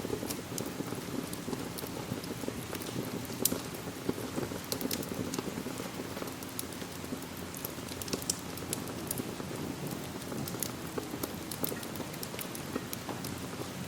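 Steady rain mixed with a wood fire burning in a fireplace: an even hiss of rain with frequent sharp crackles and pops scattered through it.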